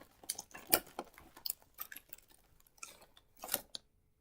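Irregular small clicks and taps, with a sharper one about a second in and a short cluster near the end.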